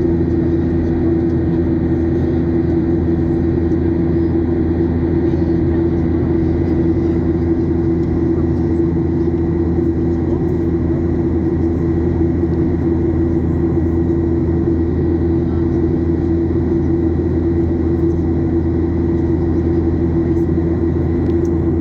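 Steady cabin drone of a Boeing 737-800 with its CFM56 turbofan engines at constant power, heard from inside the passenger cabin: a loud, even hum and rumble with a faint thin whine above it, unchanging throughout.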